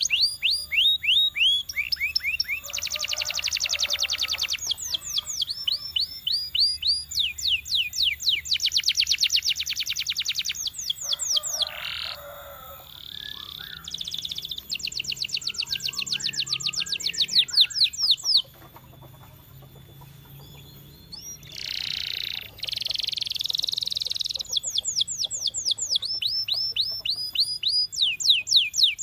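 Domestic canary singing: phrases of rapidly repeated notes, fast runs of downward-sweeping whistles alternating with dense high trills, broken by a couple of short pauses.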